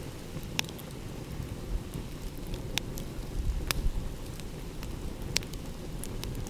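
Wood fire crackling, with scattered sharp pops, over a low steady rumble of ocean waves.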